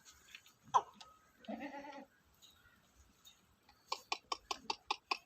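Goat bleating: one short bleat about a second and a half in, then a quick run of about eight short, stuttering pulses near the end.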